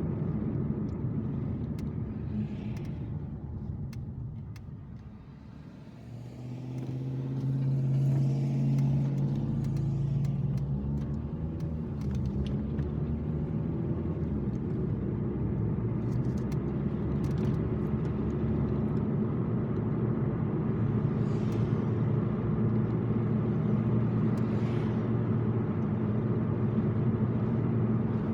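Car engine and road noise heard from inside the cabin while driving. It dips quieter about five seconds in, then the engine note rises as the car speeds up again and settles into steady cruising.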